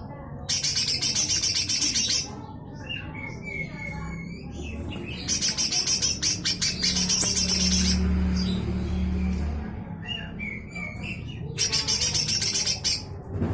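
Cucak hijau mini (small leafbird) giving its harsh rasping 'besetan kasar' call: three bursts of fast, coarse rattling notes. The middle burst runs about four seconds and the other two about a second and a half each, with softer chirps between them.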